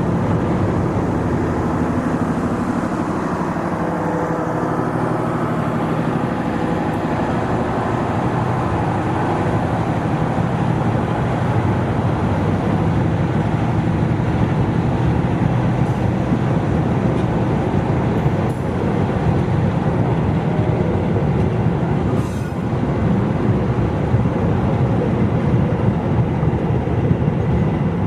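Diesel locomotive running with a loud, steady low engine drone whose pitch shifts slightly a few seconds in, then settles into a continuous rumble of the train moving on the rails.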